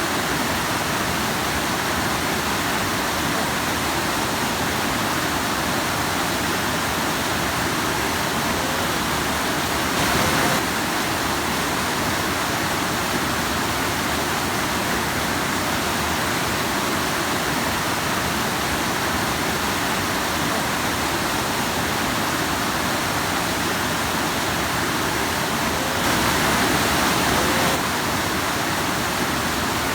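A rushing stream splashing over rocks: a steady rush of water, a little louder briefly about ten seconds in and again for a couple of seconds near the end.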